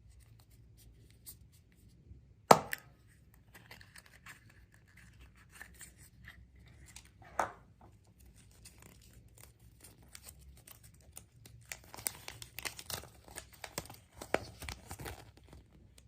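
Surprise egg packaging being torn open and crinkled by hand. There is a sharp snap about two and a half seconds in, another near the middle, and a dense run of crinkling near the end.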